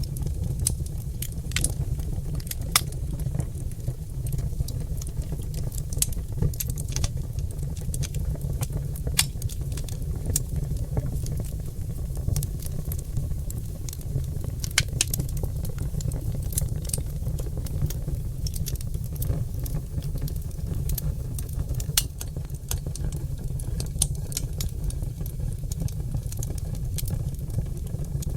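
Oak logs burning in a fireplace, crackling with irregular sharp pops and snaps over a steady low rumble.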